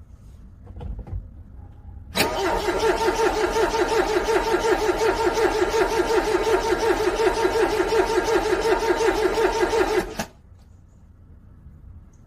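Car starter cranking a cold engine in a rhythmic churn for about eight seconds without the engine catching, then cutting off abruptly. The engine fails to start in the cold.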